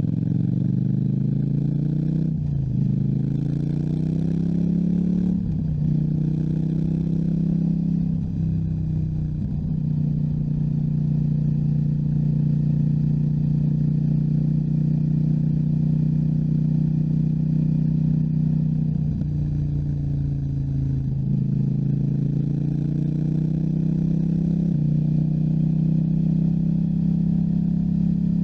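KTM 790 Duke's parallel-twin engine pulling away: its pitch climbs and drops three times in quick succession as it shifts up through the gears, then holds steady at cruising speed. About twenty seconds in the revs dip and climb twice more before another shift and steady running.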